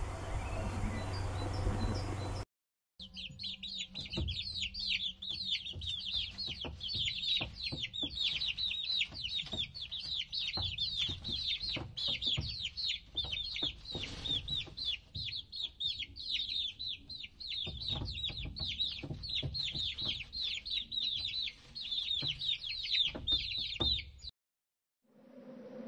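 Young chicken chicks peeping: a dense, unbroken stream of high, downward-falling cheeps, several a second. It starts a few seconds in and cuts off suddenly near the end.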